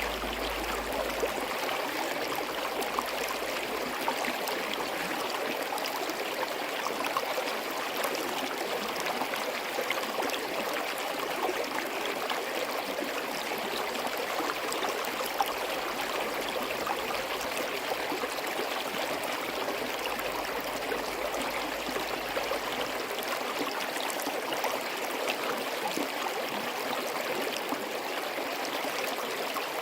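Forest stream running steadily, a continuous babble of flowing water with small splashes and trickles.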